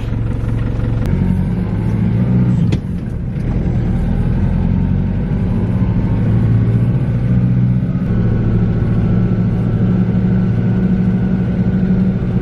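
New Holland tractor's diesel engine running steadily under way, with a short knock about three seconds in and a brief dip in the engine note.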